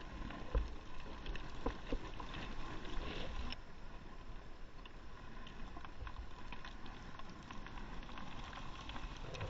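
Electric motor of a radio-controlled scale crawler truck running with a faint steady whine, with scattered clicks and knocks as the truck works over rough ground, the loudest about half a second and two seconds in, over a low rumble on the microphone.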